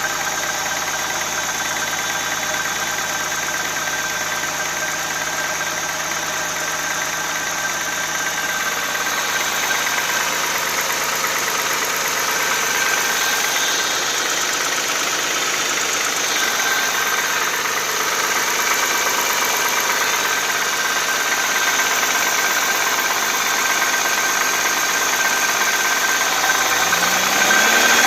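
Audi A6 C4's 2.6-litre ABC V6 idling from a cold start with a knock in the engine that an oil change has not cured.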